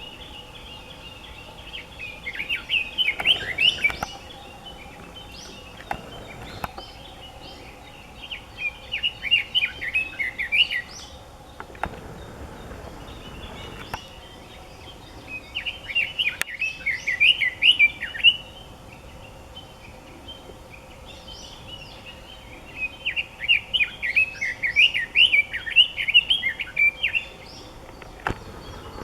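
Red-billed leiothrix singing: four bouts of rapid, warbling song, each a few seconds long, separated by pauses of several seconds.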